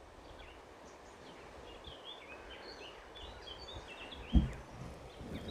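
A bird chirping in a run of short, quick notes over faint background noise, with a brief low thump on the microphone about four seconds in.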